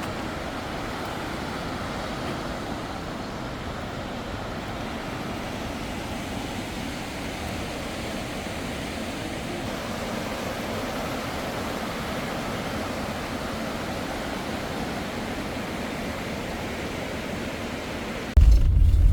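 Steady road and tyre noise of a motorhome driving along a highway. Near the end it changes abruptly to a much louder, deep rumble.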